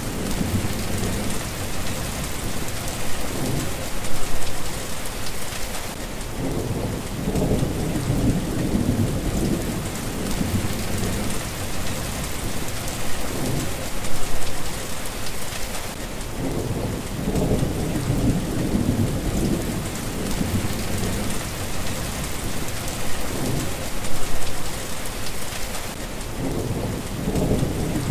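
Steady rain falling, with low thunder rumbling in and out in repeated swells, and a brief louder peak about every ten seconds.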